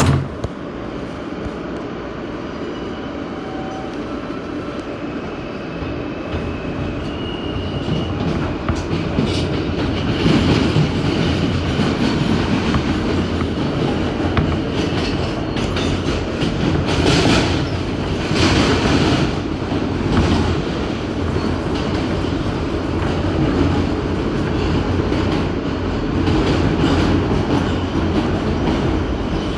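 New York City subway A express train running on the rails: a steady rumble of wheels with clickety-clack over the rail joints. It grows louder from about eight seconds in, with two short hissing rushes about halfway through.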